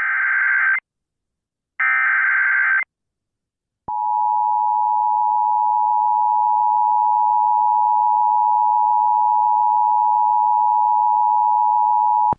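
Emergency Alert System tones over AM radio announcing a flash flood warning: two shrill, buzzy digital data bursts of about a second each, then the steady two-tone attention signal held for about eight seconds. The attention signal stops abruptly near the end.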